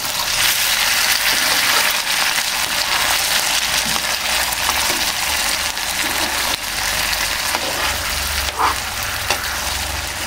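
Chili-tomato sambal with pieces of tongkol fish sizzling and bubbling in a frying pan, stirred with a metal slotted spatula. A couple of short knocks of the spatula against the pan come near the end.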